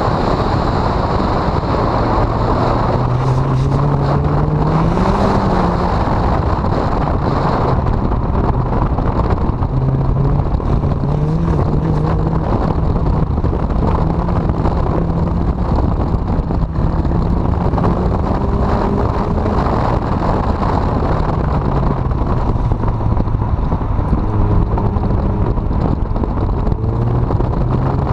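Honda CRX four-cylinder engine under hard driving, its pitch rising and falling again and again as it revs up and eases off. Heavy wind buffeting on the microphone nearly drowns it.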